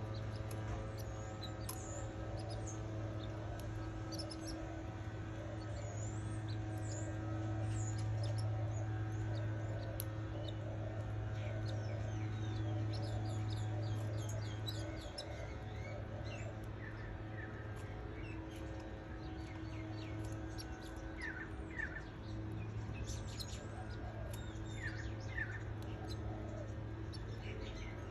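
Young canaries chirping: many short, scattered chirps and quick up-and-down notes, coming in little runs, busier in the second half. A steady low hum runs underneath.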